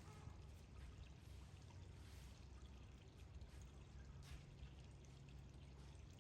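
Faint, steady running or pouring water over a low rumble.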